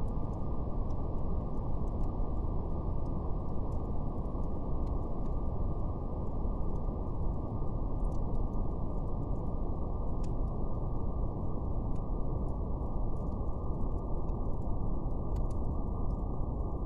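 Steady brown noise: a deep, even hiss with its energy below about 1 kHz, unchanging throughout. Faint, sparse crackles of a fire tick over it at irregular moments.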